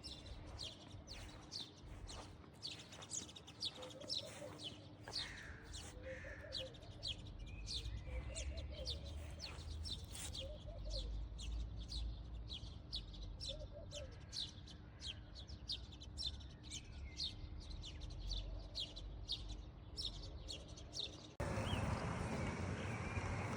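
Small birds chirping: a steady run of quick, high chirps, two or three a second, with some lower warbling calls mixed in. Near the end it cuts suddenly to louder, wind-like rushing noise.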